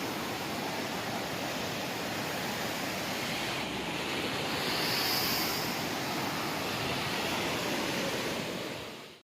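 Steady rush of fast-flowing river water, fading out near the end.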